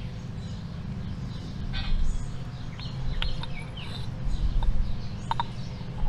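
Small birds chirping now and then over a steady low background hum, with a few light clicks and clinks from steel guide-assembly parts being handled.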